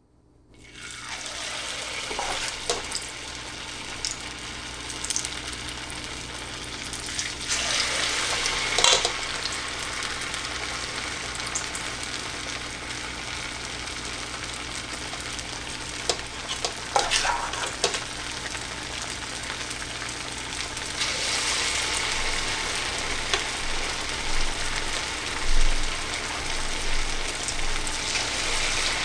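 A ball of mashed-potato-and-flour dough frying in hot oil: a dense, steady sizzle with sharp crackles and pops. It starts about a second in and swells louder several times.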